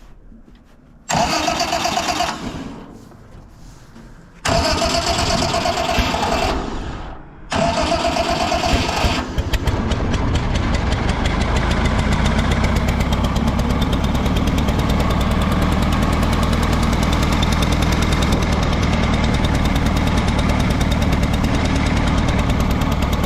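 Allis-Chalmers G tractor's four-cylinder gasoline engine cranked on its electric starter in three short bursts, the starter whining, before it catches about nine seconds in and settles into a steady idle. The owner says it is acting like it's running rich.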